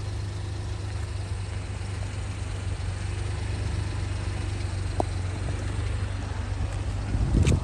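Honda Acty kei truck engine idling steadily as a low, even rumble. There is a single click about five seconds in and a short, louder rumble near the end.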